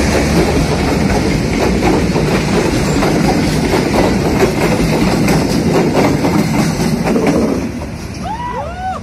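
Passenger train coaches rolling past close by: steady rumble of wheels on rail with repeated sharp clicks and clatter over the rail joints. The noise drops off near the end as the last coach goes by.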